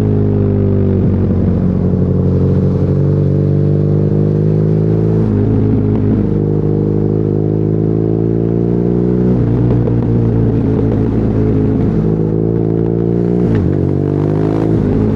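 BMW R nineT's air/oil-cooled boxer twin running through an Akrapovic exhaust under way, its pitch climbing steadily in each gear with breaks for gear changes about five, nine and a half, and thirteen and a half seconds in.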